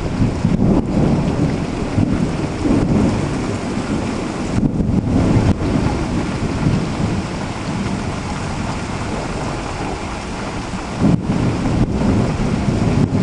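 Heavy thunderstorm: steady downpour of rain with thunder rumbling in several low swells, the strongest near the start, around five seconds in, and near the end.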